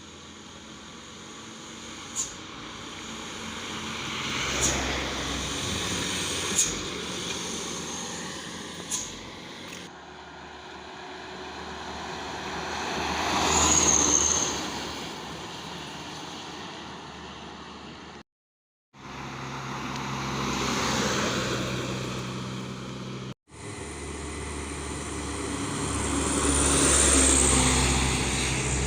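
Trucks driving past one after another, each engine and tyre noise swelling to a peak and fading, with a few sharp clicks in the first third.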